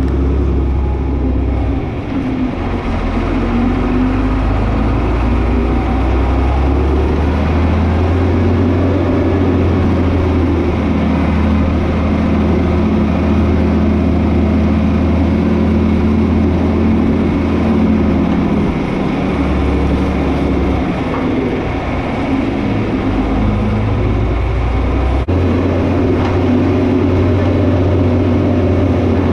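John Deere 4320 tractor's six-cylinder diesel engine running loud and steady under working load, its pitch shifting up and down several times as the load and throttle change.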